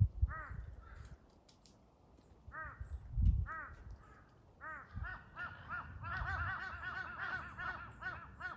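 Crows cawing: a few single caws, then several crows calling over one another in a busy chorus for the last few seconds. A dull low thump about three seconds in.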